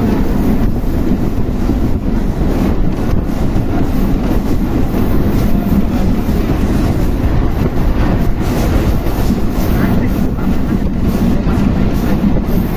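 Train running on the rails: a steady, loud rumble with occasional clacks.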